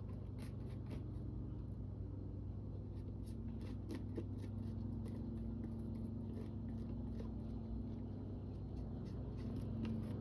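Paper being handled and rubbed at a craft desk: faint scratching and rustling with scattered light ticks, over a steady low electrical hum.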